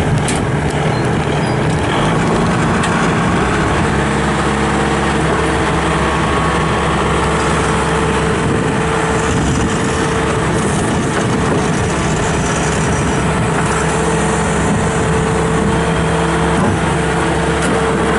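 Bobcat S630 skid steer's Kubota V3307 four-cylinder diesel engine running steadily.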